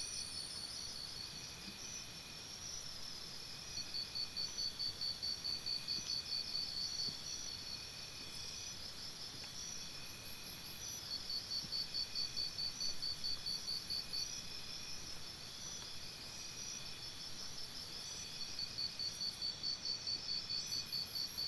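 Crickets chirping in pulsing bouts of about four pulses a second, each bout lasting a few seconds with short pauses between, over a fainter steady insect trill.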